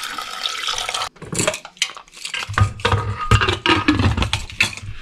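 Water poured into a pressure cooker holding soaked chickpeas and whole spices: an even splashing pour that stops suddenly about a second in. It is followed by a quick run of clinks and knocks of kitchenware being handled.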